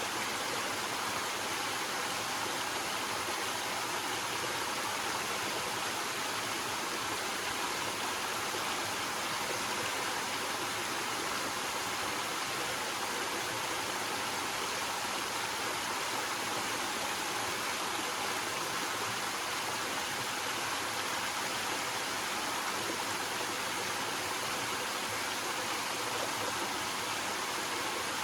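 Small waterfall with water cascading over rocks: a steady, even rushing.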